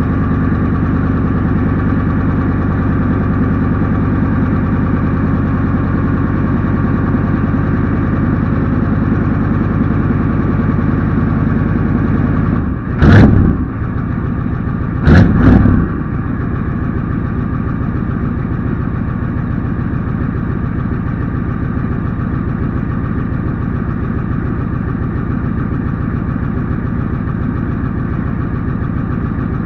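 Ford 7.3 L IDI naturally aspirated V8 diesel idling steadily after a cold start. Two loud, brief bursts break in about 13 and 15 seconds in, after which the idle carries on a little quieter.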